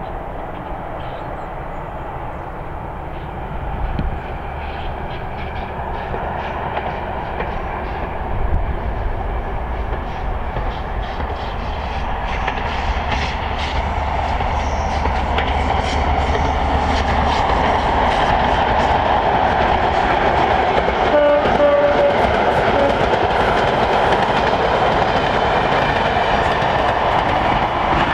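HST 125 test train's diesel Class 43 power cars and wheels on the rails, approaching and passing; the running noise grows steadily louder through the second half as the train draws near.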